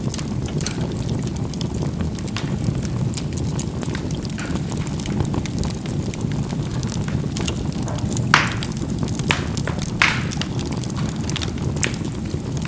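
Charcoal burning in a fireplace: a steady low rumble of the fire with frequent small crackles and snaps as the coals pop, two louder pops about eight and ten seconds in.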